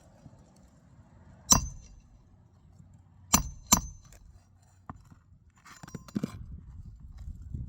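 Three sharp metal-on-metal strikes from hand tools on a shingle roof, each with a short high ring: one about a second and a half in, then two in quick succession about two seconds later. A brief scraping rustle follows near the end.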